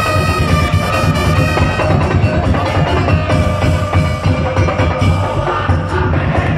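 Madurese daul (tongtong) ensemble playing: wooden slit drums and drums keep up a dense, steady beat under a sustained melody line.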